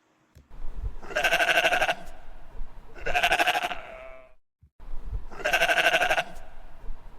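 Sheep bleating: three quavering baas about two seconds apart, with a fourth starting near the end.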